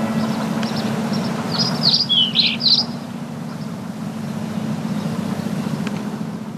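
Small bird chirping, a quick run of sharp, falling chirps about two seconds in, over a steady low rumble.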